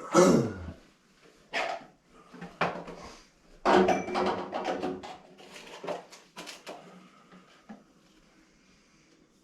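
Hard objects being handled and set down in a workshop, a run of clattering knocks, busiest about four to five seconds in, with a falling scrape-like sweep right at the start.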